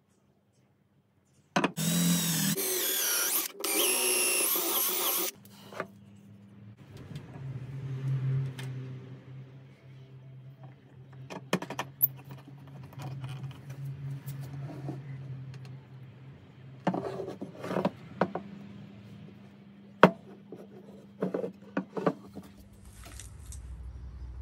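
Handheld electric power tool running in two loud bursts with a wavering high whine, starting about two seconds in. After that come scattered clicks and knocks of tool and workpiece handling over a low hum.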